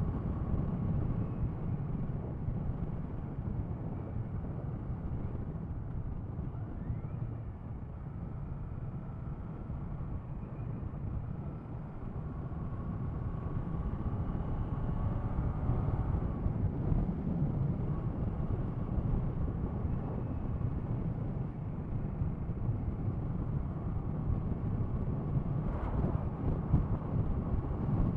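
Motorcycle riding sound as picked up by a rider-mounted action camera: steady wind and road rush, with the 2016 Kawasaki ER6-F's parallel-twin engine running underneath and its pitch drifting up and down with the throttle. The rush eases briefly about a third of the way in, then builds again.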